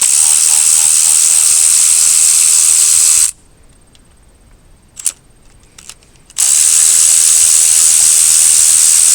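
Two long bursts of loud, steady hissing from a pressurised jet, each about three seconds long, the second starting about six seconds in.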